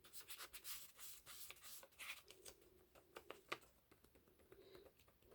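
Faint paper rustling with small ticks and taps as hands press and smooth a glue-sprayed paper cutout onto a journal page. The rustling quietens after about three and a half seconds.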